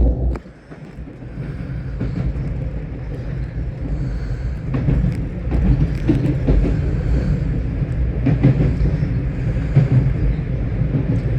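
Steady low rumble of an M3 electric multiple-unit train running at speed, heard from inside the car, with its wheels clicking on the track every so often.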